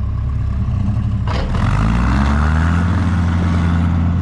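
A vehicle engine revs up and holds at higher revs under load as a tow-strap pull begins, with a single knock just before the revs rise.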